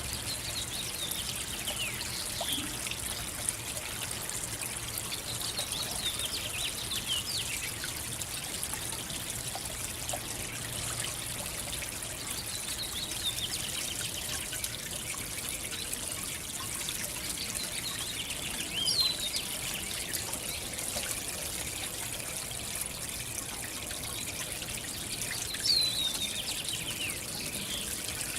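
Backyard fountain trickling steadily, with short bird chirps that slide down in pitch every few seconds, the loudest about two-thirds of the way through and again near the end.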